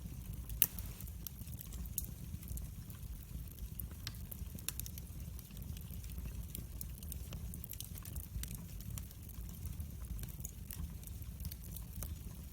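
Wood fire crackling in a fireplace: a steady low rumble of flames with many small sharp crackles throughout and one louder pop about half a second in.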